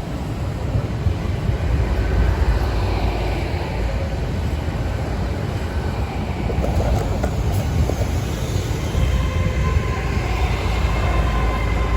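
An Avanti West Coast Class 805 bi-mode multiple unit running past, with a steady deep rumble of its engines and wheels on the track.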